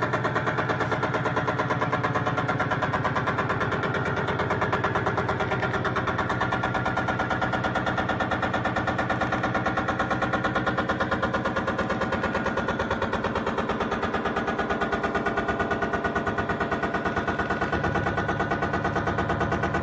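Electronic sound generated from a line drawing: a fast, even pulsing buzz over several held tones, steady in level throughout.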